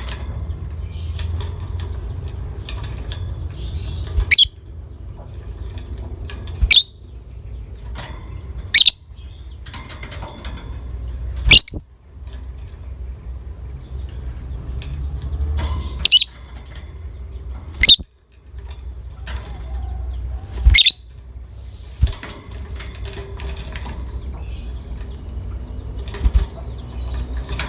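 A lovebird giving loud, sharp, high-pitched shrieks, one every two to four seconds, with soft chattering between them.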